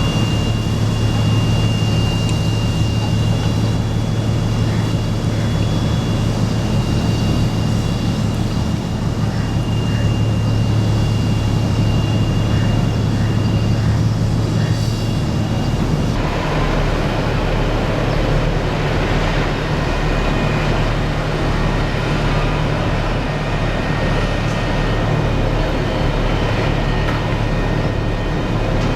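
Heavy cargo-loading machinery running steadily with a deep engine-like drone. A thin high whine drops out about halfway through and the machinery sound changes.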